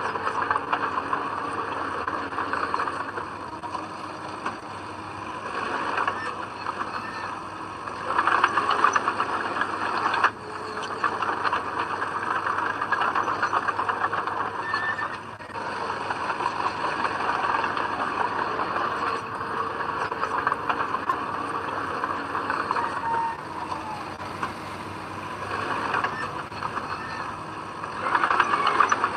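Heavy diesel earthmoving machine working, its engine running under changing load, with louder surges about eight seconds in and again near the end.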